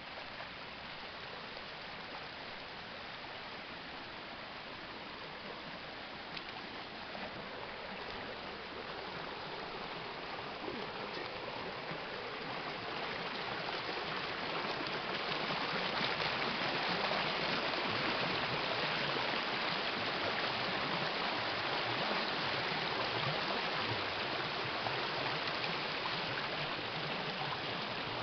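Forest stream flowing: a steady rush of water that grows louder over the first half and then holds.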